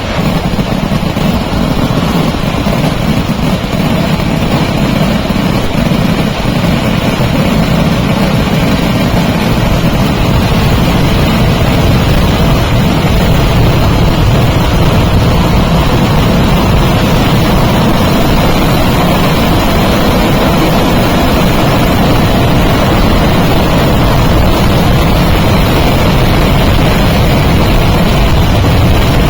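A dense, unbroken fireworks barrage: explosions come so fast that they merge into one loud, continuous crackling rumble. It grows a little louder after the first ten seconds or so.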